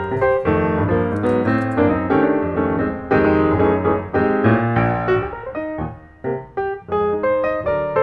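Background music: a piano playing quick notes at a steady pace.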